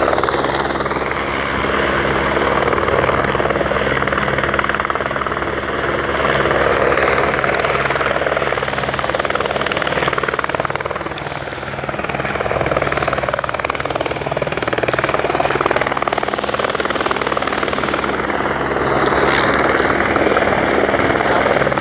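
Helicopter flying nearby: a steady rotor and engine noise that dips slightly in loudness about halfway through.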